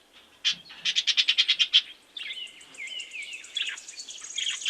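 Parrot calling: a rapid rattling trill of about ten pulses a second, followed by a run of short chirps and whistles.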